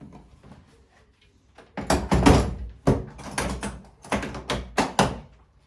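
A run of knocks and clattering from hard objects being handled, starting about two seconds in and stopping shortly before the end.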